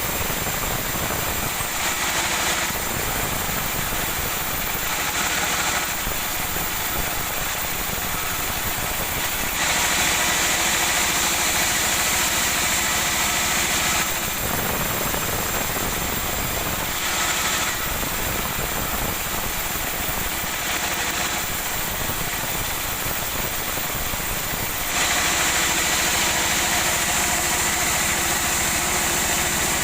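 Woodworking machinery cutting sonokeling (Indonesian rosewood): a steady motor hum, with several stretches of a few seconds each when a louder, hissing cutting noise rises over it as the wood is fed through.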